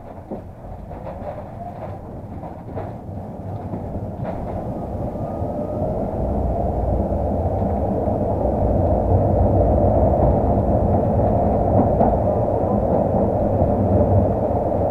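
Tram running on rails, its wheel and running noise building steadily as it picks up speed. A few sharp clicks and knocks come in the first few seconds.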